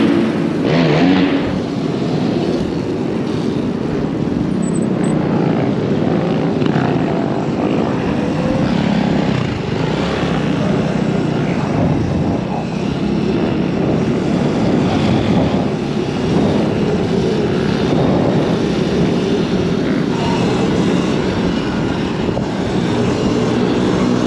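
Dirt-bike ride noise: a loud, steady drone that holds without a break, with a pitched engine note coming in near the end.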